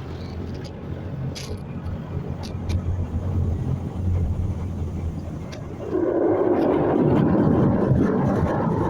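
Steady low hum of an idling car, then about six seconds in a loud rushing spray starts suddenly as the car wash's water jets hit the car.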